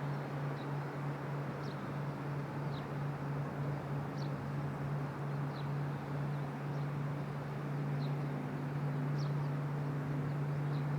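Steady low drone of distant jet engines at the airport over a wash of outdoor noise, with faint short bird chirps about every second.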